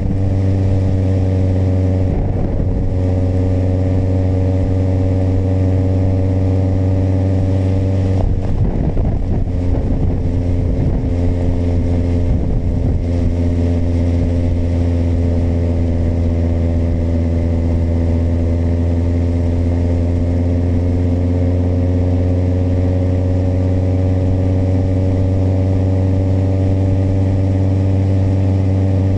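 Kawasaki motorcycle engine running at a steady cruising speed, a deep, even drone that holds nearly the same pitch. Short rough rumbles cut in about two seconds in and again around eight to thirteen seconds in.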